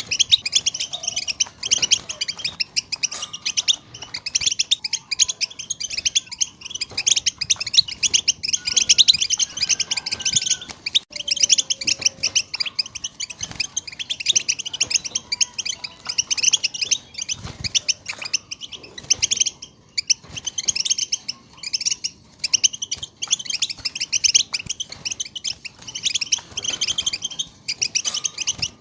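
A group of European goldfinches chattering together: dense, overlapping rapid twittering chirps with no pause.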